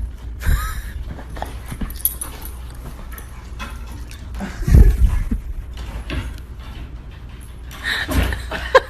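A dog making a few short whines or yips over rustling and handling noise, with a loud, heavy thump about five seconds in.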